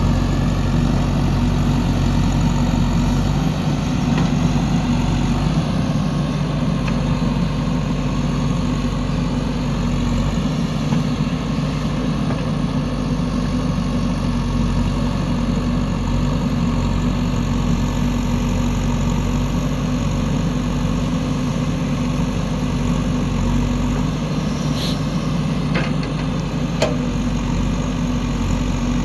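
JCB 3DX backhoe loader's diesel engine running steadily while it works, with a few short knocks near the end.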